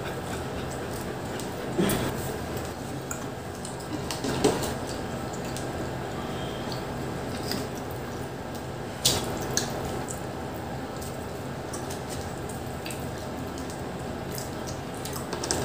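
Pizza being chewed and bitten with the mouth close to the microphone: soft wet mouth sounds with a few short sharp clicks and taps, over a steady low hum.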